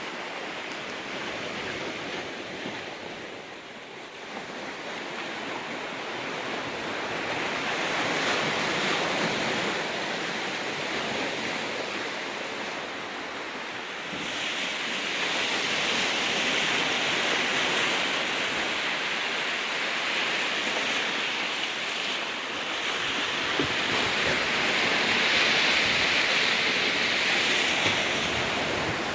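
Sea waves surging and washing against a rocky beach, the surf rising and easing in slow swells every several seconds, with some wind on the microphone.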